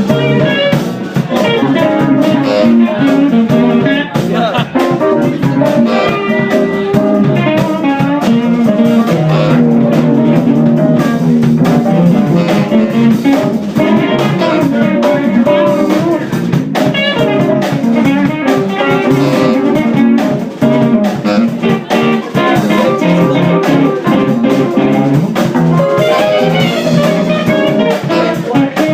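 Live band music: guitar over bass and a drum kit, with a steady beat.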